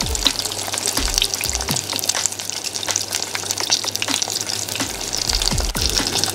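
Chicken deep-frying in hot oil, a dense crackling sizzle, over background music with a low beat.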